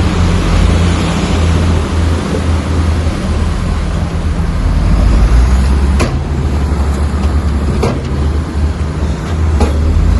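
Komatsu bulldozer's diesel engine running steadily with a heavy low drone, with three sharp knocks in the second half.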